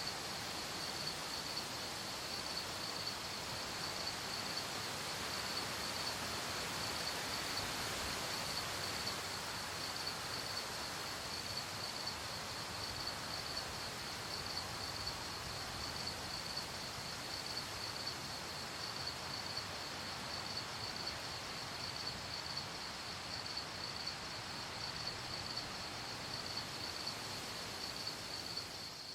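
Crickets chirping in a continuous, evenly pulsing high trill, over a soft steady hiss of background noise.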